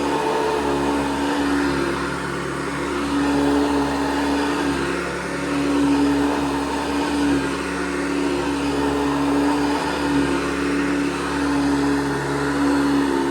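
1982 Hoover Guardsman upright vacuum cleaner running with a steady motor hum and rushing air, its loudness swelling and easing every couple of seconds.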